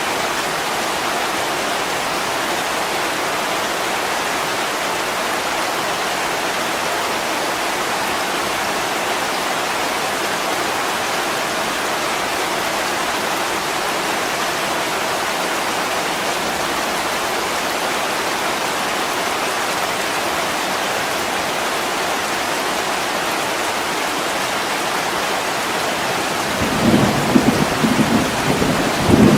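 Heavy rain falling steadily. About three seconds before the end a low rumble of thunder comes in, louder than the rain.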